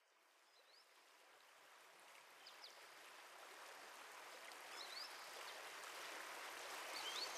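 Running water of a stream, fading in gradually from silence, with a few short, faint bird chirps over it.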